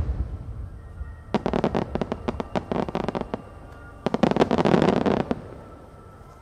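Aerial firework shell's burst rumbling away, then two spells of rapid crackling pops from its crackling stars, the first about a second in and the second about four seconds in.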